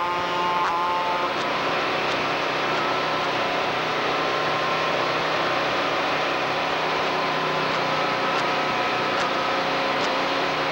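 Truck engines running steadily in a passing convoy, with a brief chord of steady tones in the first second.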